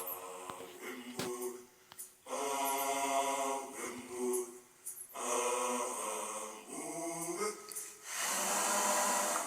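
Voices singing without instruments, in phrases a second or so long with short breaks between them.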